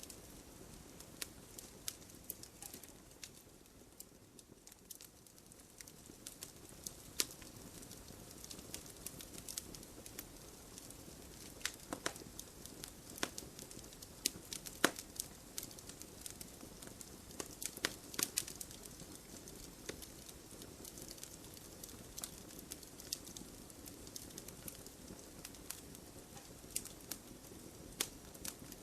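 Wood fire burning in an open fireplace, crackling with irregular sharp pops and snaps over a soft steady rush of flame.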